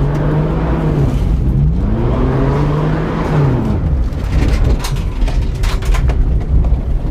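Saturn L300's 3.0-litre V6 revving hard under full throttle, easing off about a second in, pulling up again and then dropping away around three and a half seconds in. After that a run of sharp clicks and knocks sits over rougher road noise.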